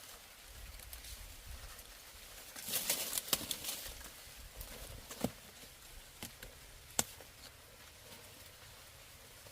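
Quiet outdoor ambience with a short burst of rustling about three seconds in and a few sharp, separate clicks after it.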